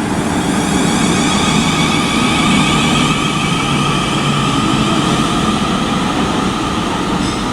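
A South Western Railway electric multiple unit pulling out of the station, its traction motors giving a steady high whine of several tones over the rumble of the train.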